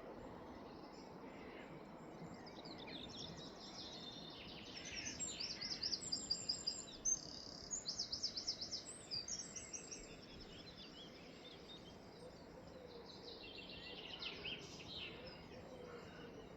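Wild hedgerow birds singing. A loud run of rapid, high repeated notes comes in the middle, and other songs and chirps come and go over a faint steady outdoor hiss.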